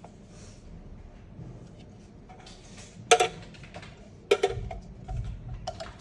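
A few sharp clicks and knocks of hard objects handled on a surface, with some soft low thuds between them, the loudest click about three seconds in.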